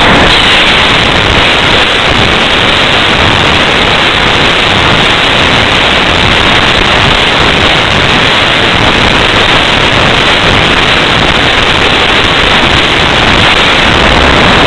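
Loud, steady rush of wind over the microphone of a small Flycam1 camera on a slope-soaring glider in flight, with no pitch or rhythm to it.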